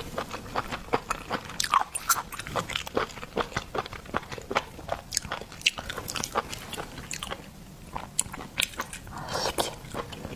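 Close-miked eating of shellfish: a dense, irregular run of sharp clicks and crunches from biting and handling shells, mixed with wet chewing.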